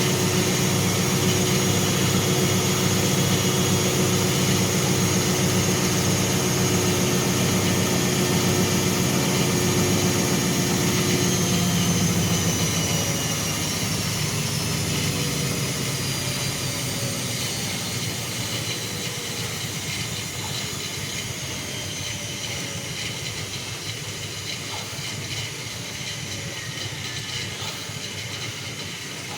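Bauknecht WAS 1400 washing machine running steadily at speed, with a high whine above a low hum. About twelve seconds in the pitch begins to fall slowly and the sound fades gradually, like the drum coasting down at the end of a spin.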